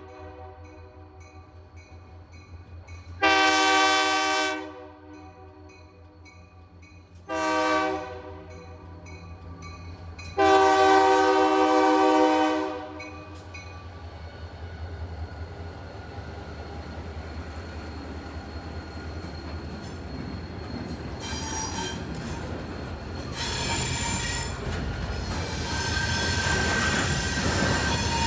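Horn of an EMD SD40-2 diesel locomotive blowing a long blast, a short one and a long one, the end of the grade-crossing signal. The locomotive's engine then rumbles past, and freight cars roll by with clickety-clack and wheels squealing on the rails, louder toward the end.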